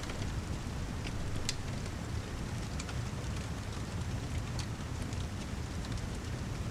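Steady rain mixed with a crackling fireplace: an even rushing noise with a deep rumble underneath and scattered sharp pops every second or so.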